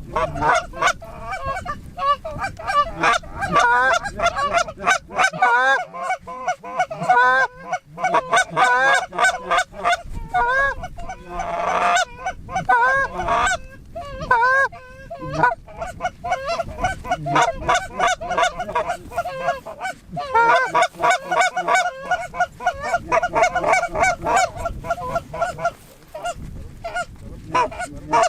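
Canada geese honking and clucking in rapid, overlapping calls, several a second, with a few short lulls.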